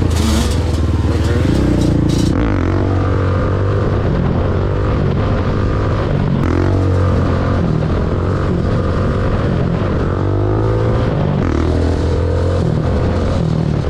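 Dirt bike engine running and revving, its pitch rising and falling over and over as it is ridden.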